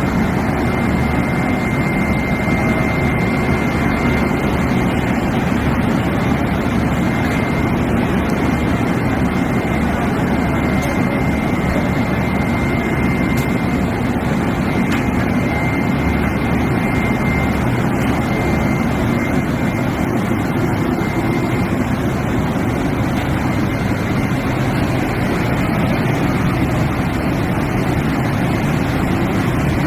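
Indian Railways locomotive running steadily: a loud, unbroken low rumble with a thin, steady high whine that fades out about twenty-two seconds in.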